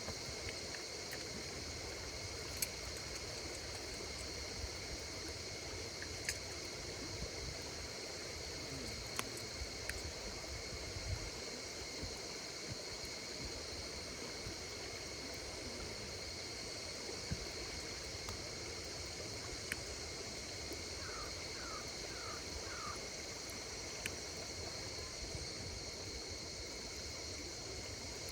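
Wood fire crackling with scattered sharp pops, over a steady, continuous chorus of insects singing. About three quarters of the way through comes a quick run of four short chirps.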